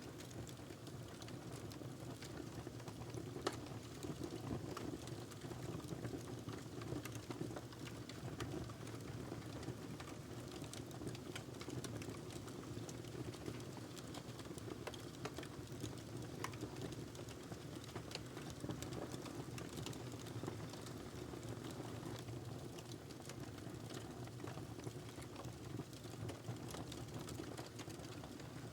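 Wood fire burning in a fireplace: a steady low rush of flames with irregular crackles and small pops throughout, one sharper pop a few seconds in.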